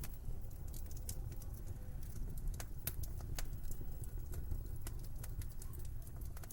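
Wood fire crackling in a fireplace: sharp, irregular pops and snaps over a steady low rumble of winter wind.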